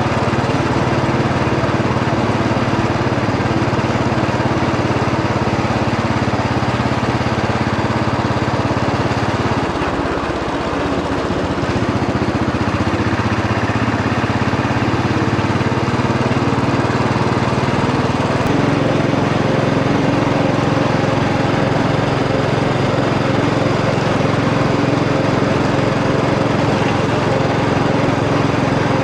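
Royal Enfield Bullet 500 EFI's single-cylinder four-stroke engine running while riding. The engine eases off briefly about ten seconds in, then pulls again at a steady note.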